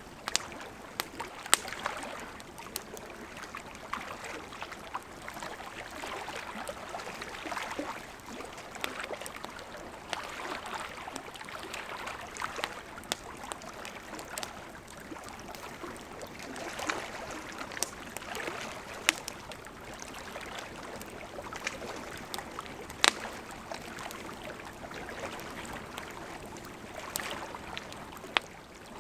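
Wood campfire crackling, with frequent sharp, irregular pops, over the steady rush of a gently flowing river.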